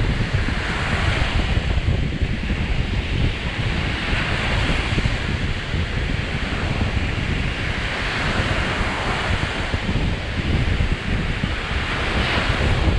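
Lake Michigan surf breaking on the shore, the wash swelling and easing about every four seconds. Wind buffets the microphone with a low rumble underneath.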